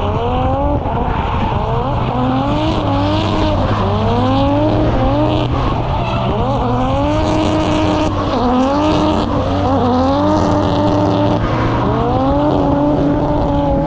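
Onboard sound of the Nissan Primera P10 time-attack car's engine on track, revving up and easing off over and over as the throttle is worked, over steady road and wind drone.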